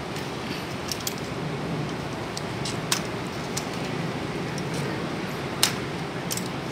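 A few short, sharp bird chirps, the loudest about five and a half seconds in, over a steady hiss of background noise.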